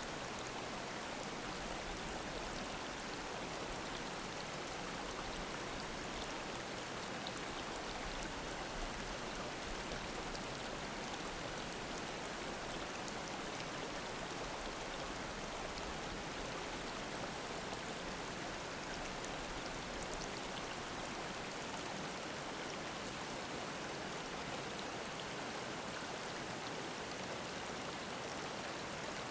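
Mountain stream babbling over rocks: a steady, unbroken rush and splash of running water.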